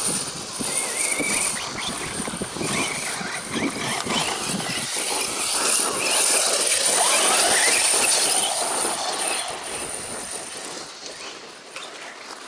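Electric RC off-road car's motor whining up and down in pitch as it speeds up and slows on dirt, with its tyres crunching over the ground; a long climbing whine about five to seven seconds in is the loudest part.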